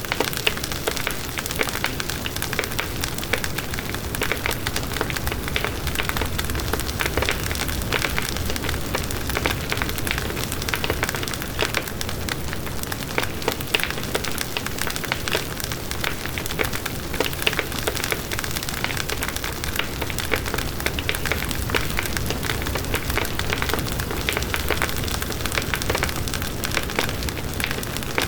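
Campfire burning: wood crackling in many small, irregular snaps over a steady hiss.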